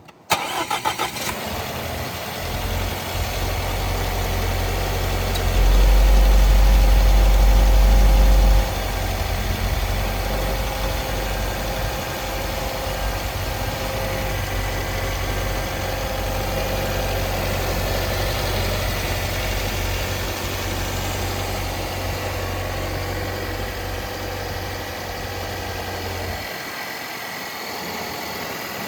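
2018 Volvo XC60 T6's turbocharged and supercharged 2.0-litre four-cylinder engine starting from cold: it catches almost at once and runs at a fast idle with a louder deep drone for about three seconds, then settles into a steady idle that eases off a little near the end.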